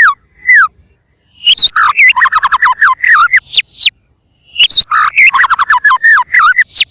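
White-rumped shama singing hard: quick runs of loud, clear whistled notes, many sliding down in pitch, in three bursts with short pauses between them.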